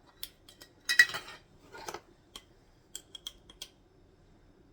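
A measuring spoon clinking and scraping against a container while black pepper is spooned in for a spice blend: a sharp clink about a second in, a short scrape near two seconds, then a few light ticks.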